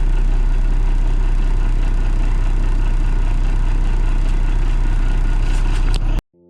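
Peterbilt 359 dump truck's Detroit diesel engine running steadily, with no revving. The sound cuts off abruptly near the end.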